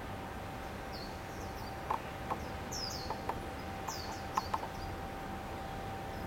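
Birds chirping: short, high calls that fall in pitch, repeated every second or so. A scatter of sharp ticks comes in the middle, over a faint steady tone.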